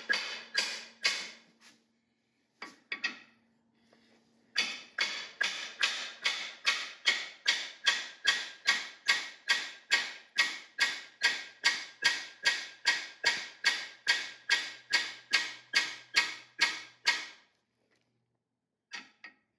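Hammer tapping steadily on the driver bar of a Lisle 18000 cam bearing tool, driving a cam bearing into a small block Ford engine block. There are about two taps a second, each with a short metallic ring. A few taps come first, then a short pause, then a long even run that stops near the end, followed by two faint taps.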